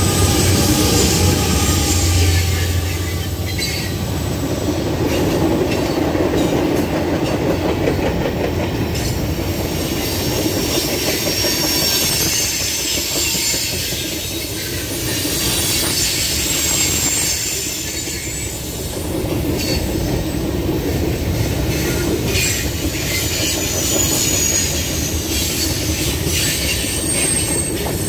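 Freight train rolling past at close range. Diesel locomotives in the middle of the train give a low engine hum that passes within the first three seconds. After that, tank cars and covered hoppers roll by with steady wheel noise, clicks over the rail joints, and high wheel squeal that slides up and down in pitch.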